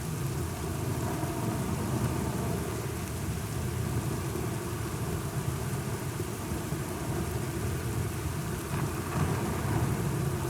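Thunderstorm: steady rain with a continuous low rumble of thunder, swelling slightly about nine seconds in.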